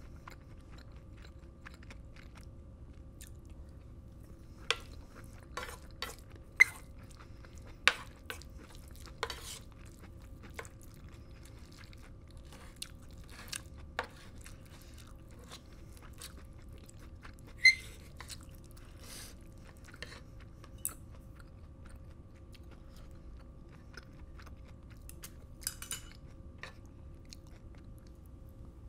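Close-miked chewing of black bean sauce fried rice, with scattered sharp clicks and knocks of a wooden spoon against the pan, a few of them loud.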